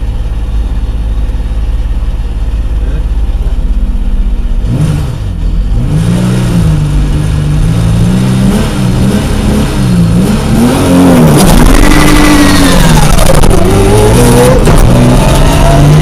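Opel Ascona rally car's engine heard loud from inside the cabin. It idles steadily, then from about five seconds in it is revved up and down repeatedly, and it pulls away under power in the second half.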